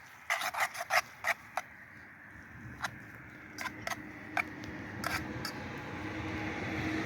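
A quick run of sharp clicks and knocks, then a few scattered clicks, while a steady hum grows louder toward the end.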